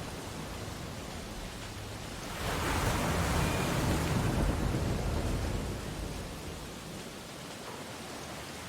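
Ocean waves breaking on a beach: a steady hiss of surf, with one wave swelling about two and a half seconds in and washing out over the next few seconds.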